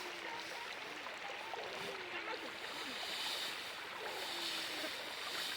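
Steady rush of running water, like a stream, with a faint wavering sound drifting over it.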